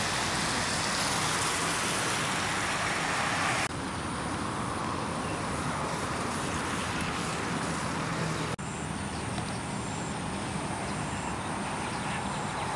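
Steady outdoor road noise of passing traffic, in three clips cut together; the first is louder and hissier than the other two.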